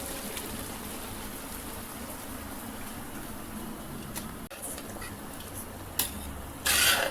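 Steady hiss of biryani cooking on the stove while drained rice goes into the pot, with a click about six seconds in and a brief loud rasping noise near the end.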